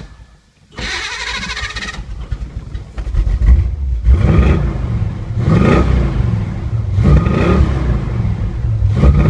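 Car engine cranked over and catching about three seconds in, then revved in repeated throttle blips that rise and fall in pitch. It sounds pretty good now that its fuel supply is sorted.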